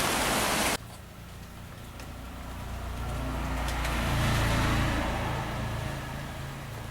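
A loud steady hiss that cuts off suddenly just under a second in, then a passing road vehicle: a low rumble that swells to a peak around the middle and fades away.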